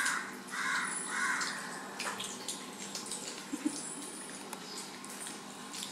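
A bird calling three times in quick succession near the start, followed by faint clicks and rustles of children eating.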